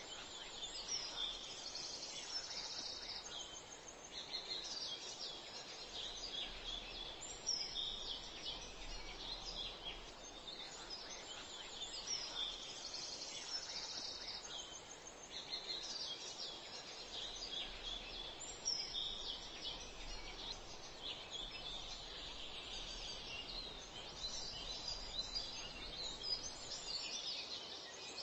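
Birds chirping and calling almost without a break, high-pitched and busy, over a steady outdoor hiss.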